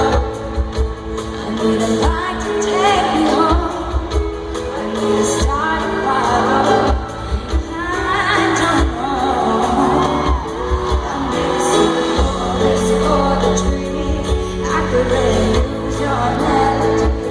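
Live pop ballad performance: a band holds steady sustained chords while a female singer sings wordless vocal runs and ad-libs that rise and fall in several phrases.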